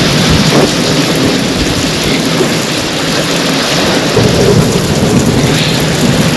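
Heavy rain pouring steadily in a thunderstorm, with a low rumble of thunder underneath the hiss of the downpour.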